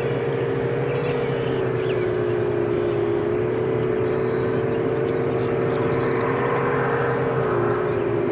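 5-inch FPV quadcopter's four brushless motors and tri-blade propellers whining steadily in level cruising flight, over a rush of wind. The pitch dips slightly near the end as the throttle eases.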